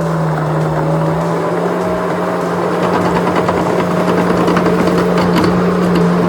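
Skid steer engine running at a steady pitch, with a run of rapid clicking and rattling from about three to five and a half seconds in.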